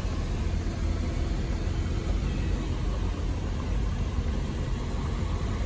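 Car moving slowly, with a steady low rumble of engine and road noise.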